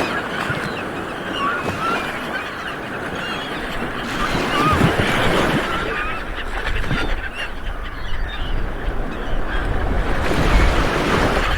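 Light waves washing onto a beach, surging twice, with many short bird calls over the surf.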